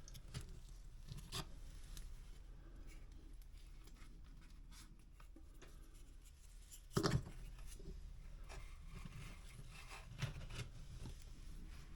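Faint scraping and rubbing as fast-setting body filler is spread and pressed into a hole in drywall, with one louder knock about seven seconds in.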